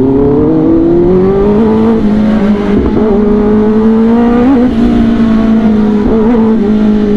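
Kawasaki ZX-10R's inline-four engine accelerating hard. The revs climb over the first two seconds, then hold fairly steady with a few brief dips, and begin to ease off near the end.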